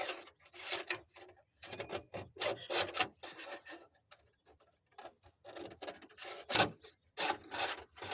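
Irregular rubbing and scraping strokes, each under a second, with short pauses between them: hands working something against parts of the pickup truck.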